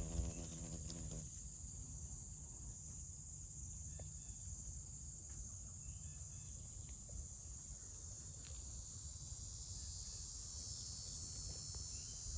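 A low insect buzz with a steady pitch stops about a second in. A steady, high-pitched chorus of insects such as crickets or cicadas runs on under a low rumble.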